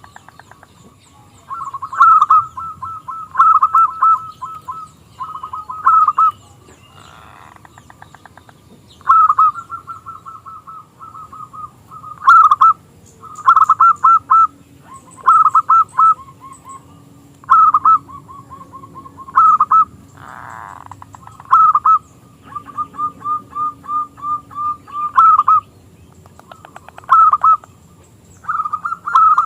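Zebra dove (perkutut) singing: phrase after phrase of rapid, stuttering coos, each lasting about a second, repeated every second or two. A few short rustling noises come between the phrases.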